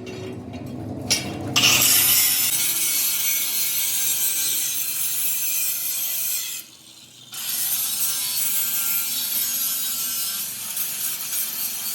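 A power tool working on metal: a steady rasping hiss that starts about a second and a half in, stops briefly near the middle, and starts again.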